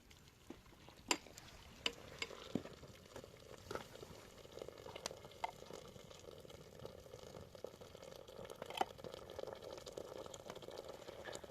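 Food bubbling and sizzling in a cooking pot, a steady bubbling that grows slightly, with scattered sharp clicks.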